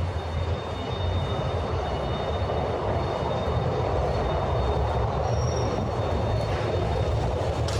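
Street traffic noise: a steady low rumble with a rushing hiss, growing slightly louder a few seconds in, as from a heavy vehicle moving along the street.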